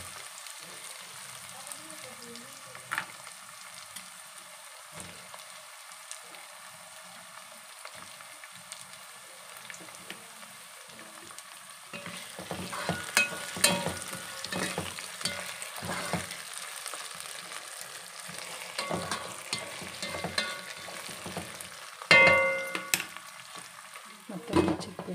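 Diced potatoes and onions sizzling in hot oil in a pot. From about halfway, a spatula stirs and scrapes against the pot in irregular strokes, with one louder clack near the end.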